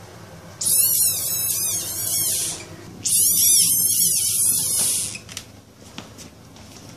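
A small frog giving two long, high-pitched, wavering distress screams of about two seconds each, a short gap between them, as a cat paws at it.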